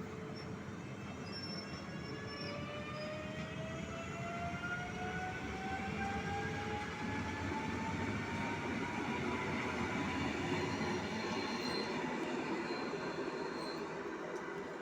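Train pulling through the station, a whine climbing steadily in pitch as it gathers speed over a rumble of running noise that swells and then begins to fade.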